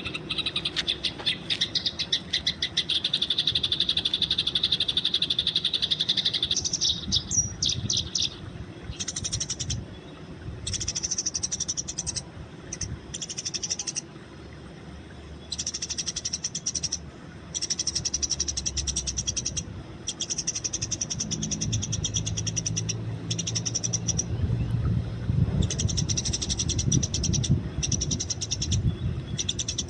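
Eurasian tree sparrows chirping: a dense, rapid chattering run for about the first six seconds, then repeated short bouts of high chirps with brief pauses between them. A low hum joins in the background from about two-thirds of the way through.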